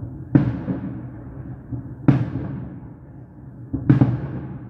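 Fireworks shells bursting overhead: three loud booms, one roughly every two seconds, each trailing off in a rolling echo.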